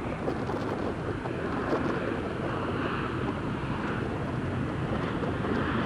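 Jet airliner's engines running at takeoff power, a steady rush, as it starts its takeoff roll.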